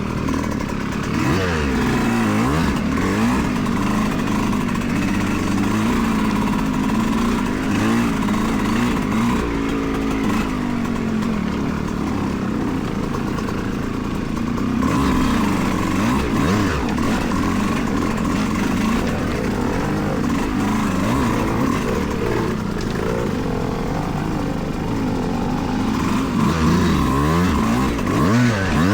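Yamaha YZ125X two-stroke dirt bike engine riding a trail, revving up and falling back over and over as the throttle opens and closes, its pitch rising and dropping every second or two.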